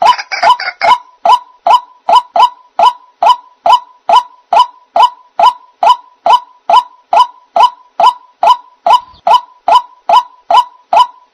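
White-breasted waterhen (ruak-ruak) calling: an even, unbroken series of short, loud 'kwok' notes, a little over two a second, played as a bird-trapping lure call.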